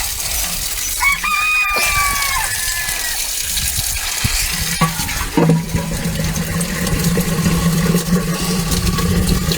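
A rooster crows once, about a second in: a single drawn-out call that falls away at its end. A steady low hum comes in about halfway through.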